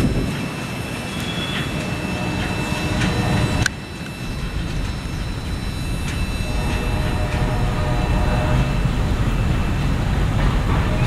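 Freight train rolling past: a steady low rumble of cars on the rails, with an abrupt break about four seconds in, after which the sound slowly builds again.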